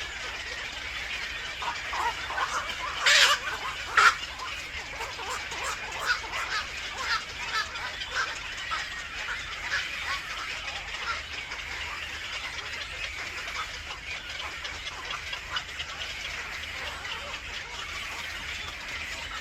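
Many short bird chirps in a steady run of calls, with two louder, sharper calls about three and four seconds in.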